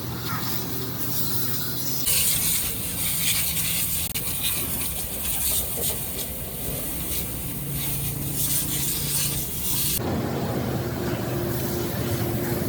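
A loud spraying hiss over a steady machine hum. The sound changes abruptly twice, about two seconds in and again near ten seconds, as one clip cuts to the next.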